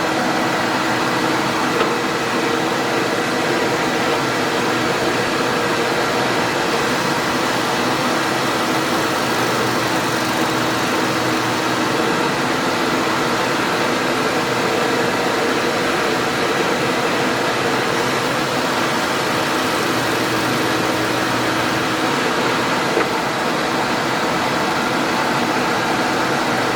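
A workshop power tool's motor running steadily, an even whir with a faint hum and no change in load.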